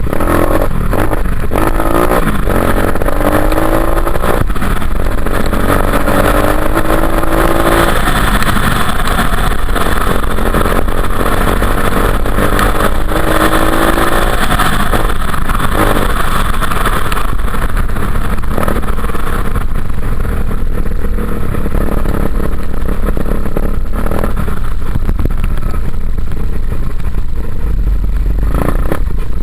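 Dirt bike engine revving and pulling hard, its pitch climbing in several rising sweeps in the first half and then running on at speed, under a heavy low rumble and clatter.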